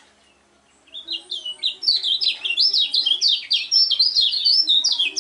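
Kecial kuning, a small white-eye songbird, breaking into song about a second in: a rapid, unbroken run of high chirping notes that slide up and down. This is the long, non-stop 'ngejos' singing that keepers prize in song contests.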